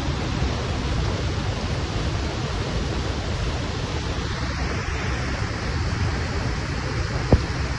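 Floodwater rushing in a steady, unbroken wash of noise, with a single sharp click a little over seven seconds in.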